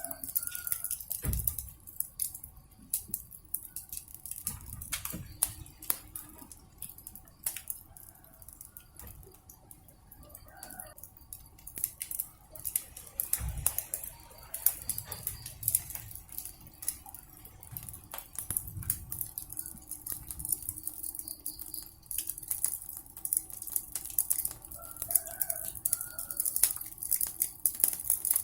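Wood fire crackling with a steady stream of sharp pops and snaps, and two low thumps, about a second and a half in and near the middle. A few short chicken clucks come now and then.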